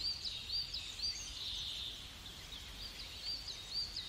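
A bird calling over and over with short, high chirps, about two a second, pausing briefly around the middle before starting up again.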